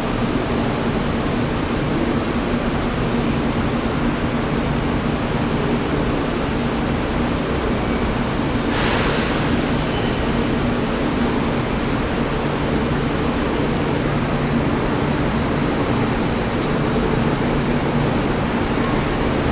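Train at a station, with a steady low hum and rushing noise. About nine seconds in comes a sharp hiss of released air lasting about a second, and a fainter hiss follows a few seconds later.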